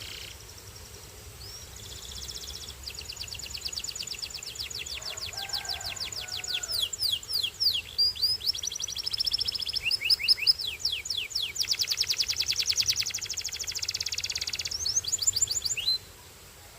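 Domestic canary singing a long song of fast trills and rolls with runs of quick sliding notes. The song breaks off suddenly near the end.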